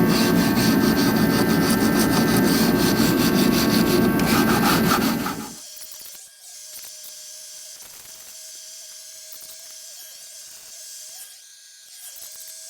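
Scraping and rubbing at old hardened grease and grime in a truck seat base's track, dense and fast, which stops abruptly about five and a half seconds in. Afterwards only a faint steady hum and a few light ticks remain.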